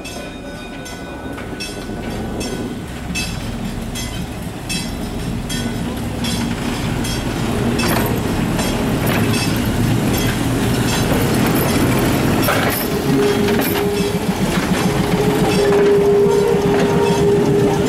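Chicago North Shore and Milwaukee electric interurban cars rolling past close by, wheels clicking over the rail joints. The sound grows louder as the train gathers speed, and a steady whine joins in about thirteen seconds in.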